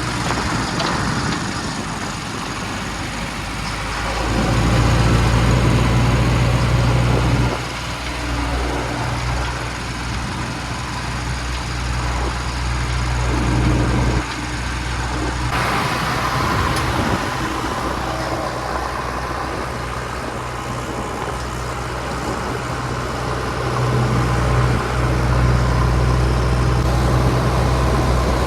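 JCB 3DX backhoe loader's diesel engine running. It revs up for a few seconds at a time, then drops back suddenly to a lower, steady run.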